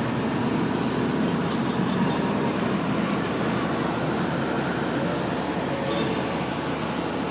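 Steady running noise from inside a moving train carriage.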